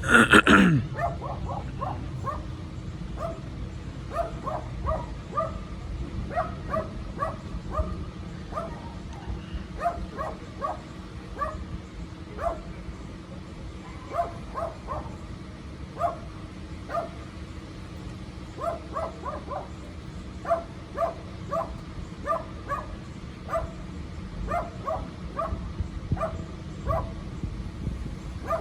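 A dog barking over and over in short, high yips, about two a second in runs with brief pauses; a louder call falling in pitch comes at the very start.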